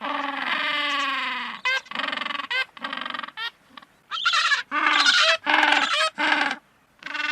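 A run of animal calls: one long call at the start, then many short honking cries, broken by sudden gaps of silence.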